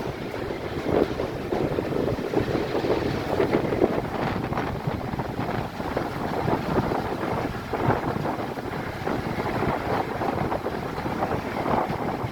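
Train running noise heard from on board, a steady rumble with small irregular knocks, with wind buffeting the microphone.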